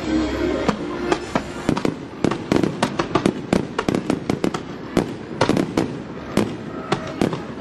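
Fireworks going off in a rapid barrage of sharp bangs and crackles, several a second, with music fading out in the first second or so.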